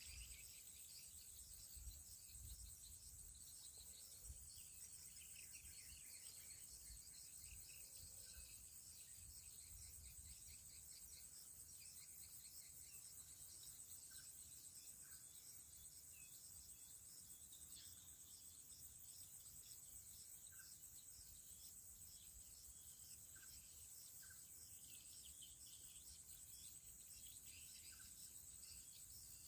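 Faint, steady high-pitched insect chorus of crickets or cicadas trilling without a break, with scattered short chirps and a few faint short notes in the second half.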